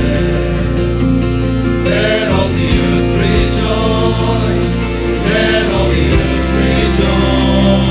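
Church choir and band playing gospel-style Christmas music: held bass and keyboard chords under a steady drum beat, with gliding sung vocal lines but no clear words.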